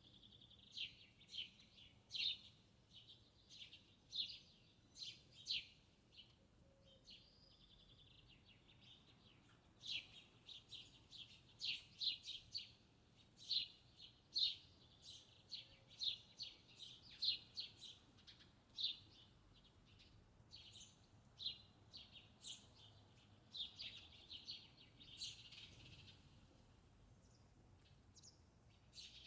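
Small birds chirping: a string of short, high calls, about one or two a second, with a few brief pauses.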